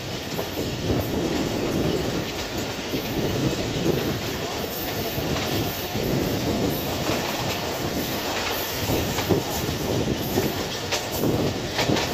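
Pakistan Express passenger train running on the line, heard from a coach window: a steady rumble of wheels on track with the irregular clatter of wheels over rail joints.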